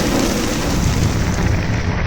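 A loud, steady rumble heaviest in the low range, with no clear rhythm or tone.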